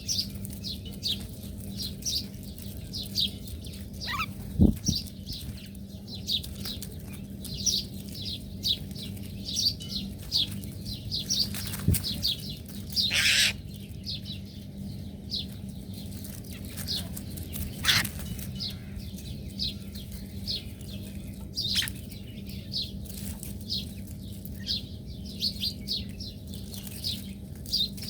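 Small birds chirping, a rapid run of short high chirps all the way through, over a steady low hum. A loud thump comes about five seconds in, and a brief rustle near the middle.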